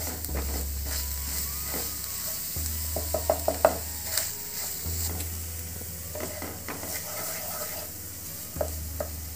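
Wooden spatula stirring and scraping onion paste and ground spices around a nonstick frying pan over a steady sizzle of the frying masala, with a quick run of sharp taps against the pan about three to four seconds in.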